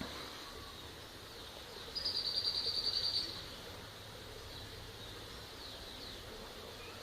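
A bird gives a rapid, high trill of about ten notes a second, lasting just over a second, about two seconds in. Fainter short bird chirps sound over steady outdoor background noise.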